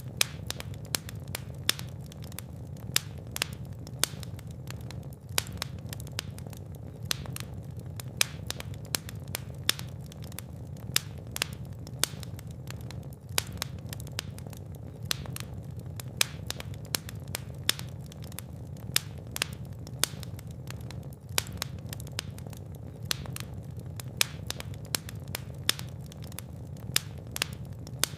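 Fireplace fire crackling, with frequent sharp pops at irregular intervals over a steady low rumble of the flames.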